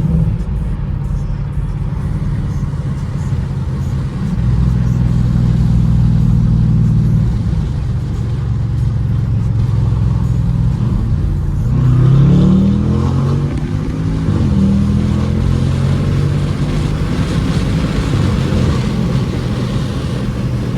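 BMW 550i's twin-turbo V8 with catless downpipes and a straight-piped exhaust, heard from inside the cabin on the move, holding a steady low drone. About twelve seconds in it revs up in a short rising pull, then settles back to a steady drone.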